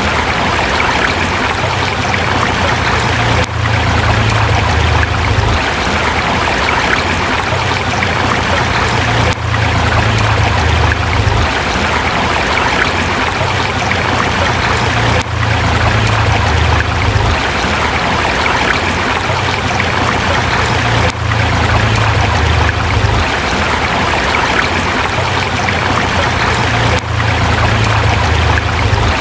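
River water rushing and splashing over rocks, a steady, even flow with a low rumble underneath. The level dips briefly about every six seconds.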